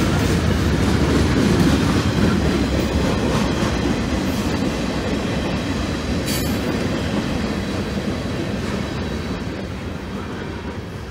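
Freight boxcars rolling past, their steel wheels clattering over the rail joints. There is a sharp clank about six seconds in, and the rumble fades as the last car goes by.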